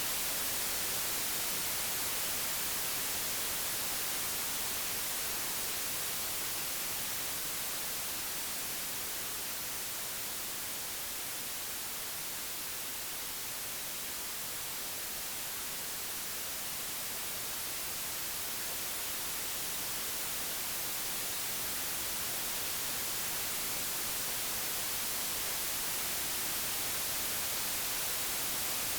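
Computer-generated white noise: an even, unbroken hiss across all pitches, brightest in the highs. It eases a little quieter toward the middle, then swells back up.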